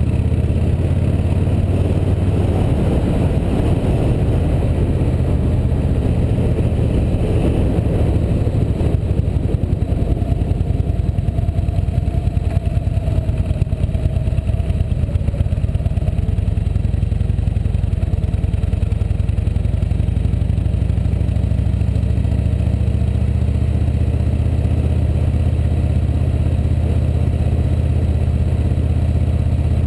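Motorcycle engine running steadily under way, a continuous low rumble that wavers slightly in the middle.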